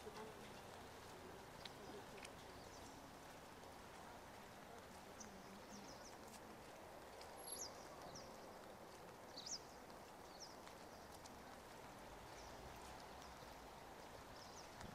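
Near-silent street ambience: a faint steady hush with a few brief, high chirps of small birds scattered through it, the clearest about seven and a half and nine and a half seconds in.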